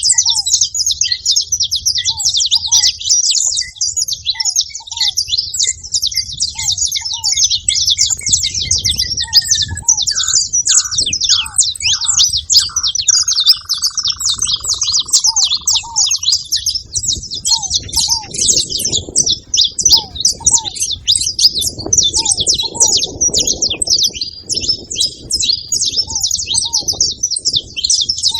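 Saffron finches chirping in a dense, continuous high chatter at a feeding spot. Under it, another bird repeats short, lower notes about twice a second, and a low rumble runs beneath.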